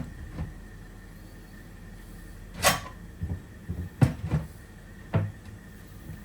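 Irregular knocks and clunks of hard objects being handled, the loudest about two and a half seconds in, with a cluster of smaller knocks after it, over a steady low hum.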